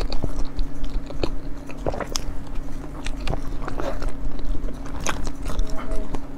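Close-up biting and chewing of a soft pork-floss sponge cake (rousong xiaobei), heard as a run of small, irregular crackly mouth clicks.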